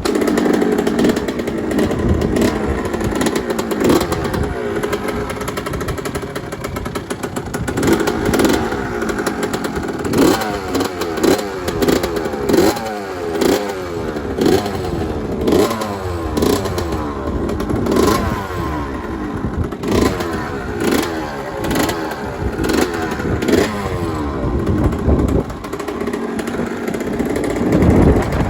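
1983 Yamaha YZ80's two-stroke single-cylinder engine running and being revved in repeated throttle blips, its pitch rising and falling about once a second through the middle stretch.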